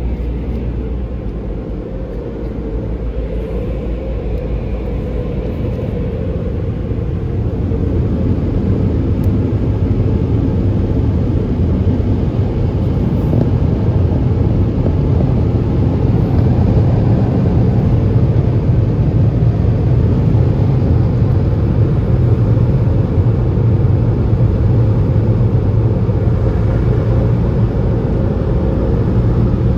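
Steady low rumble of a car driving, engine and tyre noise heard from inside the cabin, growing louder about a quarter of the way in and then holding.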